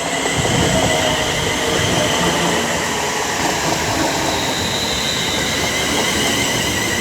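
Electric multiple-unit passenger train running along the platform: a steady loud rumble of wheels on rail with a thin high whine held over it.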